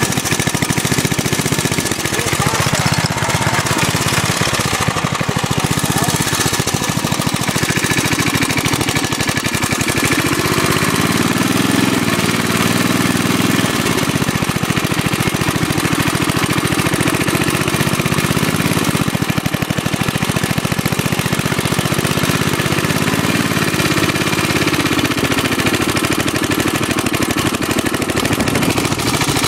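Small engine of a homemade motorcycle running with a rapid, rattly firing beat, revved up and let back down a few times.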